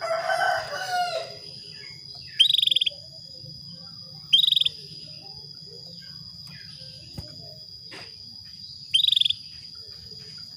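Female canary calling: three short, high, rapid trill-chirps, each about half a second long, spaced a few seconds apart. These are the calls of a hen in breeding condition, played to draw male canaries into song. A rooster crows briefly at the very start, and a steady high-pitched hum runs underneath.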